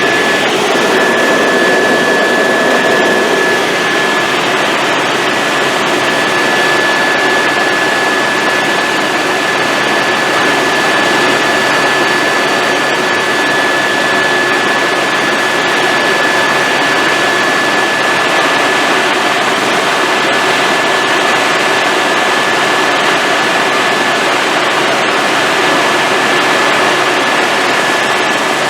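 Helicopter in flight heard from inside the cabin: a steady, loud turbine whine on one high pitch over the even rush of engine and rotor noise.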